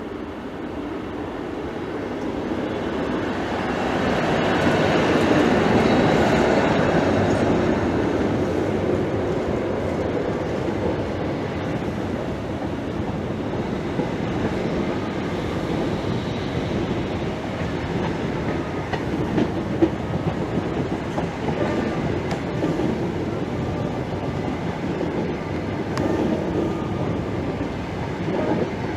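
A Class 90 electric locomotive and its intercity coaches rolling slowly past. The rumble swells to its loudest about five seconds in, then holds steady as the coaches go by, with wheels clicking over rail joints.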